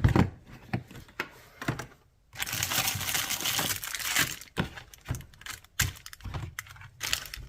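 Handling noise from a small cordless chainsaw being picked up and turned over: scattered clicks and knocks, with a stretch of crinkling rustle from about two and a half to four seconds in.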